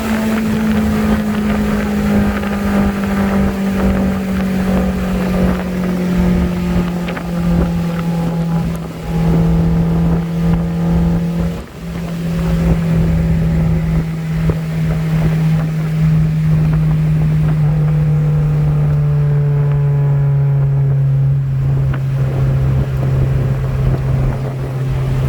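Car engine and road noise heard from a moving car at steady speed: a steady drone slowly falling in pitch as the revs ease off, with a brief dip about twelve seconds in and wind buffeting the microphone.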